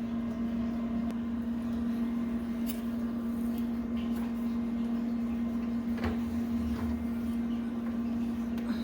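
Steady electric hum from the kitchen oven, with a few faint knocks and clicks scattered through it.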